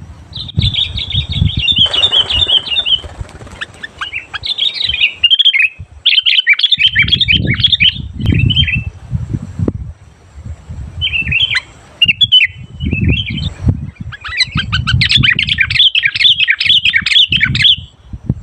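Sooty-headed bulbul (kutilang) singing loudly in repeated bursts of quick, bubbling chattering phrases, separated by short pauses. Irregular low thumps run beneath the song.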